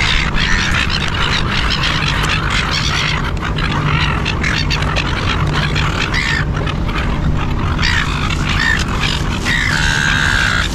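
A flock of silver gulls squawking and calling over a steady low rumble, with a longer held call near the end.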